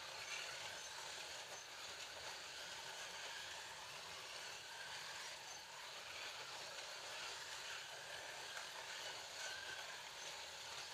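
Scalextric slot cars running around a plastic track: a steady whir of the small electric motors and the rattle of wheels and guides in the slots.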